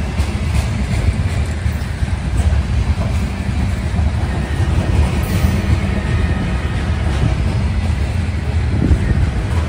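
Covered hopper cars of a freight train rolling past: a steady low rumble of steel wheels on rail, with a few faint scattered clicks.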